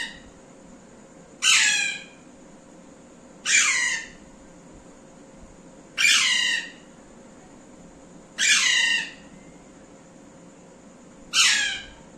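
Parrot calling: five loud squawks, each under a second and falling in pitch, spaced about two to three seconds apart.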